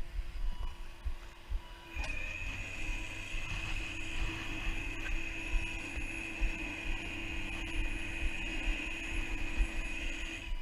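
Tow truck's winch starting about two seconds in and then running steadily with a high whine as it pulls the car in.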